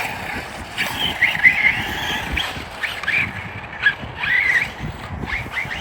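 Electric motor of a radio-controlled truck whining in short bursts as the throttle is worked on and off, over crunching and rattling from the tyres on rough ground.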